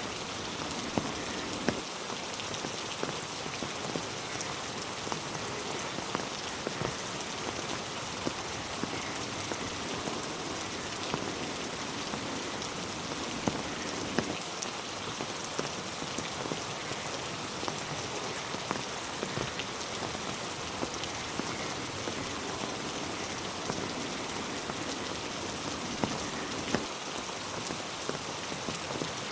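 Steady rain falling on a road and trees: an even hiss of rainfall with scattered louder drip ticks throughout.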